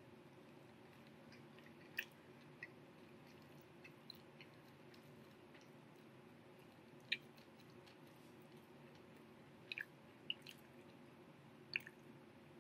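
A person chewing a Popeyes fried chicken sandwich with the mouth mostly closed, so it is very quiet. About eight faint, sharp mouth clicks and smacks are scattered through it, the sharpest about seven seconds in.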